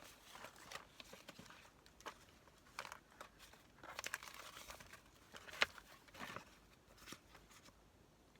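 Paper being handled: intermittent rustling and crinkling with light taps, one sharper tap about five and a half seconds in.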